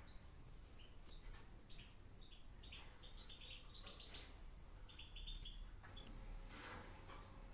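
Small cage bird chirping: a string of short, high chirps, with one louder, higher call about four seconds in.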